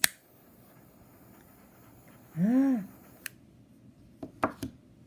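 A few sharp clicks: one at the start, one a little after three seconds in and a small cluster near the end. A woman's short hummed 'hmm' that rises and falls in pitch comes about two and a half seconds in and is the loudest sound.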